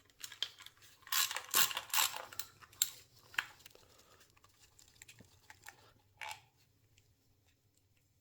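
Metal clinks and clatter of hand tools and small bolts being handled as the side casing of a Yamaha R1 engine is unbolted. The clatter is busiest between about one and two seconds in, then thins to scattered clicks.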